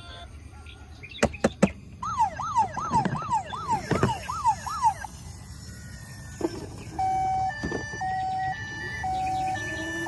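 A few clicks, then a battery-powered toy's electronic siren wailing up and down about three times a second for a few seconds. It is followed by a steady alternating two-note hi-lo tone.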